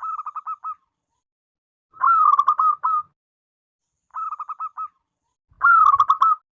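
Zebra dove (perkutut) cooing: phrases of quick, rolling staccato coos, each about a second long with short pauses between. Three phrases, with the tail of another at the very start.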